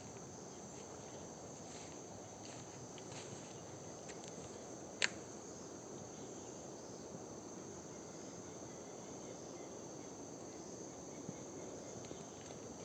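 Steady high-pitched drone of insects, such as crickets, over a low, even background hiss, with one sharp click about five seconds in.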